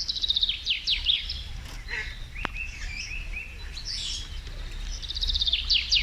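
A songbird singing two phrases, one at the start and one about five seconds in, each a fast high trill running into slower falling notes. Softer chirps come between the phrases over a low background rumble.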